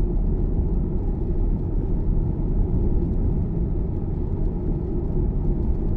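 Steady low rumble of tyre and road noise heard inside a Tesla's cabin while driving on wet roads.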